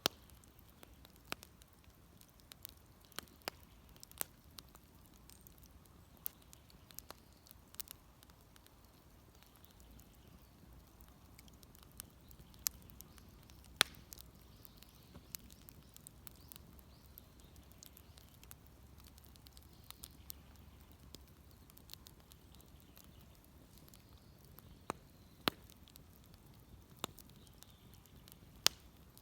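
Wood fire crackling: sharp, irregular pops and snaps, a few much louder than the rest, over a faint low rumble.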